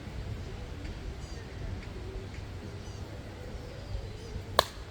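A single sharp knock of a wiffle ball impact about four and a half seconds in, over a steady low background rumble.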